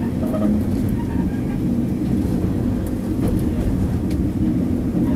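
Cabin noise inside a KiHa 40 diesel railcar running along the line: a steady low rumble of engine and wheels on rail, with a few light clicks.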